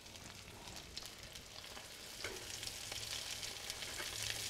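Egg-and-flour battered chicken cutlets frying in oil in a skillet: a steady, soft sizzle with fine crackling, growing a little louder about halfway through.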